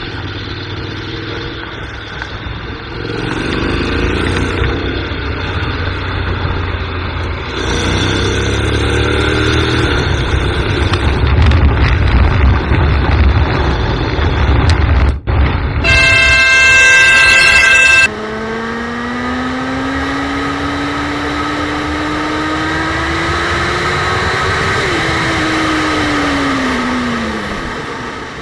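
Road traffic and vehicle engines running. Just past the middle a horn blares for about two seconds; then an engine climbs steadily in pitch as it speeds up, and drops away near the end.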